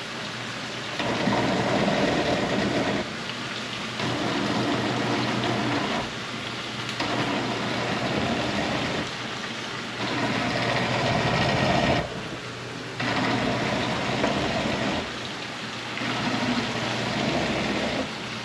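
Electric blender blending beetroot with water, run in about six pulses of roughly two seconds each with short pauses between.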